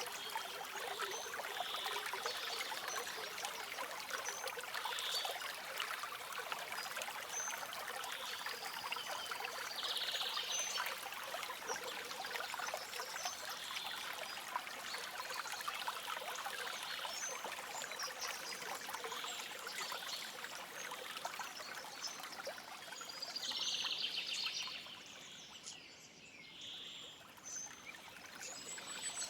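Shallow stream trickling and splashing, with small birds chirping now and then over it. The water sound drops away briefly a little before the end, then returns.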